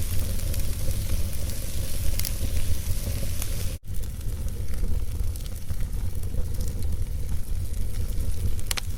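Wood fire burning in a fireplace: a steady low rumble with scattered crackles and pops from the logs. The sound cuts out for an instant just before the 4-second mark.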